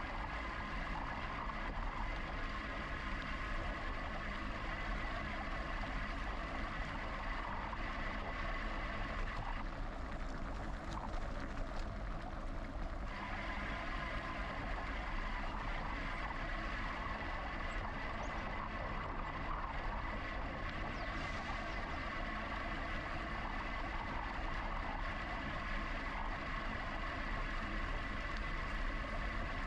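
Steady riding noise from a GoCycle GX electric bike: continuous tyre and wind rumble with a steady high whine running through it.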